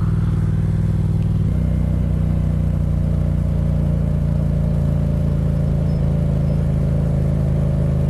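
Motorcycle engine running steadily under way, heard from the bike itself; its note changes to a new steady pitch about a second and a half in.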